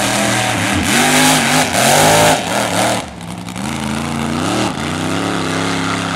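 A car's engine at full throttle launching off a drag strip start line, rising in pitch through the gears with dips at each shift, and growing quieter about halfway through as it pulls away down the track.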